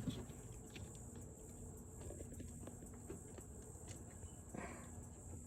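Faint, scattered light clicks and small metal taps of hands and tools working at the fuel pump's mounting nut in the engine bay, with a short rustle about four and a half seconds in.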